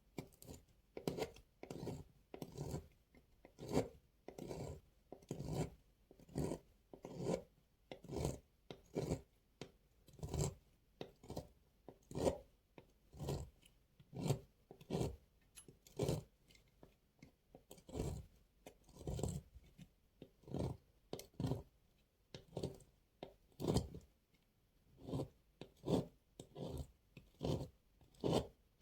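Dry soap being cut with a knife, stroke after stroke, each cut a short crunchy scrape, about one and a half a second.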